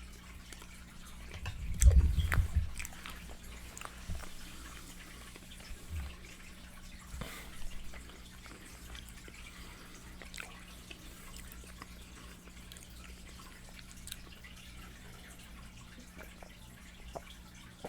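Close-miked eating of fried chicken: wet chewing with sharp lip-smacking clicks, and a heavy low thump about two seconds in.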